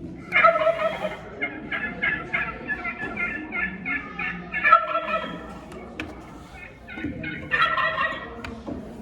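A bird calling in a fast run of short, repeated notes for about five seconds, then a second shorter burst near the end.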